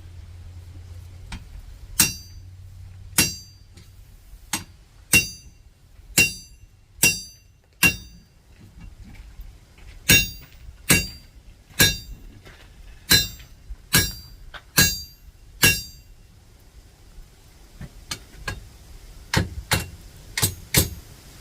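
Blacksmith's hammer striking hot iron on an anvil, each blow ringing. The smith is working a drift to open a hole in the heated piece. Two runs of about seven blows each, roughly a second apart, are followed near the end by lighter, quicker strikes.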